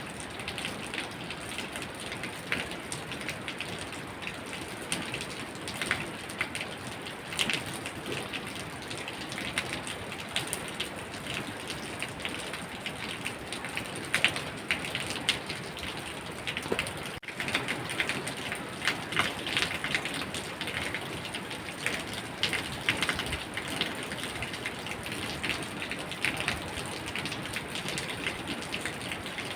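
Steady rain falling, with many separate drops striking close by through a constant hiss. There is a momentary dip in the sound about seventeen seconds in.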